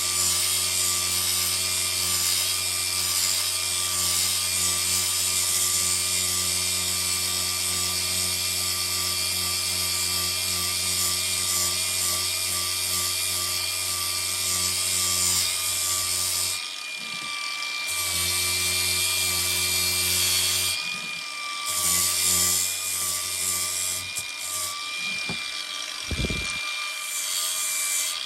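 Electric power tool running steadily with a motor hum and a hiss, stopping briefly and starting again a few times in the last third.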